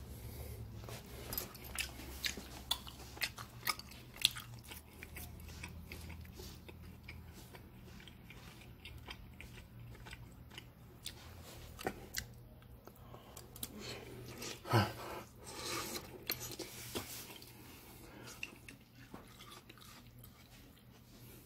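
A person chewing mouthfuls of steak and rice close to the microphone: many small, irregular mouth clicks, with a busier stretch about two-thirds of the way through.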